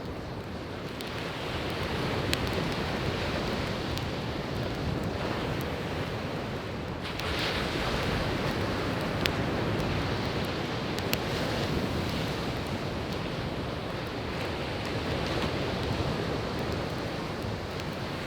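Sea waves washing onto a beach in a steady surge that swells and eases, with scattered sharp pops and crackles from burning firewood, the loudest about two seconds in and twice more around the middle.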